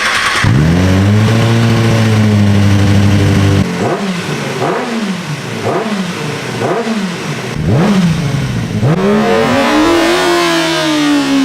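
2008 Kawasaki Ninja ZX-6R's inline-four engine being revved for a listen to its exhaust. It is held at a steady high rev for about three seconds, then blipped four or five times in quick succession. Near the end comes a longer rev that climbs and slowly falls away.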